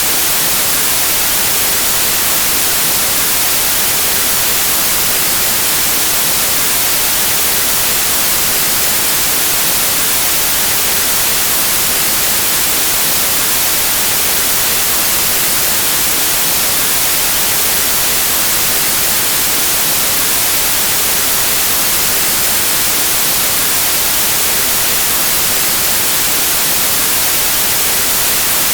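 Steady white noise: an even, unbroken hiss that does not change, strongest in the high frequencies.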